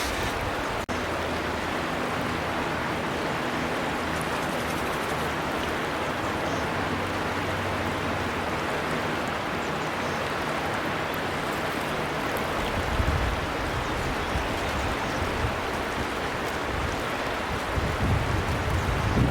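River water flowing steadily, a constant rushing. Low gusty rumbles come in about two-thirds through and again near the end, and the sound drops out for an instant about a second in.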